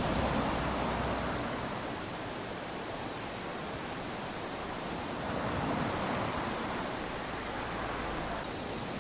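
Small waves lapping onto a sandy beach: a continuous wash of surf that swells and fades, with one wave coming in right at the start and another about halfway through.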